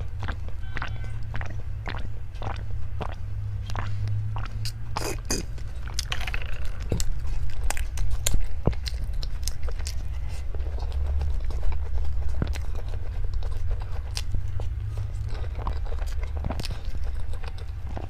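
Close-miked eating: a person biting and chewing crunchy food, with many irregular sharp crunches and clicks over a steady low rumble.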